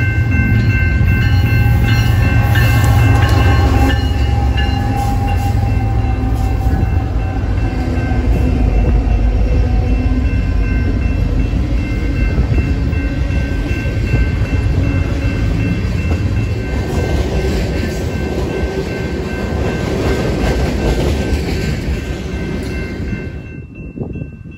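BNSF freight train passing close by: the diesel locomotives' heavy rumble is loudest in the first few seconds, then the steady rumble and rattle of a string of tank cars rolling on the rails, with steady high ringing tones over it. The sound drops away suddenly near the end.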